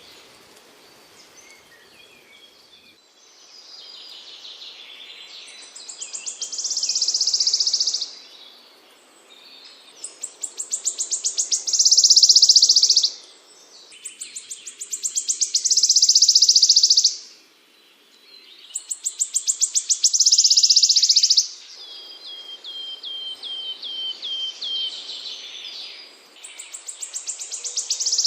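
Small songbird singing a repeated high trill about every four seconds. Each trill starts as separate quick pulses that speed up and grow louder into a dense buzz. After the middle comes a run of about ten short falling chips.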